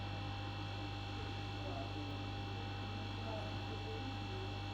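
Steady electrical mains hum with a few faint, constant high tones above it; nothing starts or stops.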